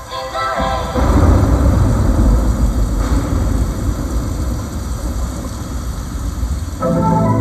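A loud, low rumbling wash of noise over an arena sound system. It takes over from the music about a second in, and the music comes back near the end.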